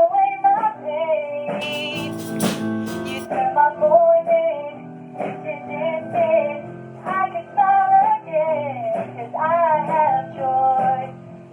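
A worship song: a voice sings a melody over guitar accompaniment, with a few strummed chords about two seconds in.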